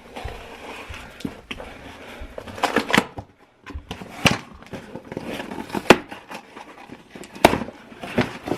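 A shipping package being opened by hand: rustling and tearing of the packaging, broken by several sharp snaps.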